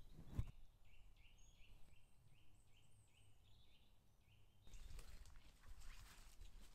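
Faint woodland birdsong: a small bird repeating a short, high call about three times a second. About four and a half seconds in, this gives way to footsteps crunching and rustling through dry leaf litter.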